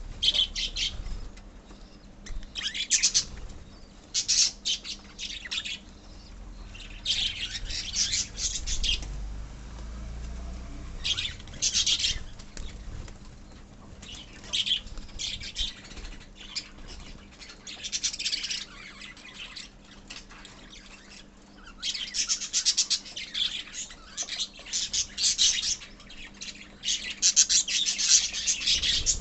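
A colony of lovebirds chattering: rapid high-pitched chirps and squawks in bursts with short lulls between, busiest over the last seven seconds.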